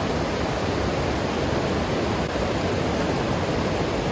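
Cascade waterfall rushing, a steady, even roar of falling water.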